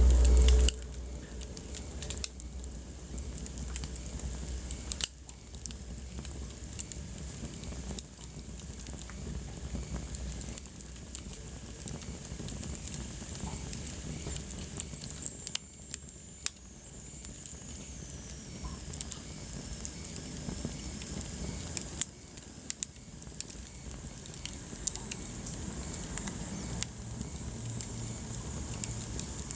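Wood fire burning in a fireplace, crackling with frequent small sharp pops over a steady hiss. There is a brief low rumble in the first second.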